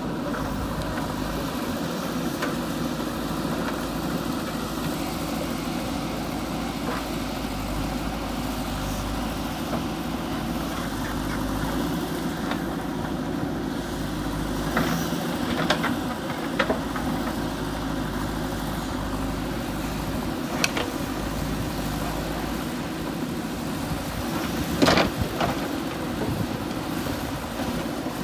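JCB 3DX backhoe loader's diesel engine running steadily while it works, with a few sharp knocks around the middle and a louder one near the end.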